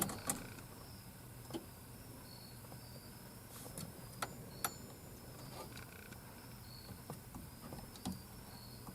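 Quiet background: a steady low hum with scattered light clicks and short, faint, high chirps repeating.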